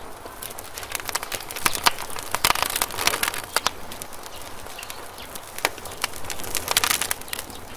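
Campfire crackling, with irregular sharp pops and snaps that come thick for a couple of seconds, ease off, then come thick again near the end, over a soft steady hiss.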